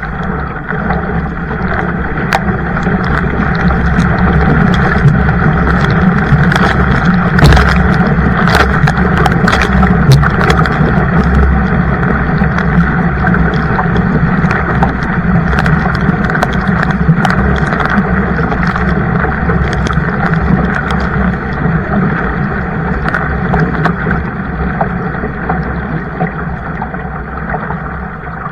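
Kayak paddled at a sprint: a continuous rush and splash of water with frequent sharp splashes. It builds over the first few seconds and eases off near the end.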